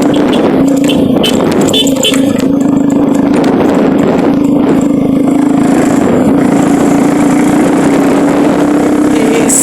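Motor vehicle running steadily on the move, with a constant engine hum under loud travel noise.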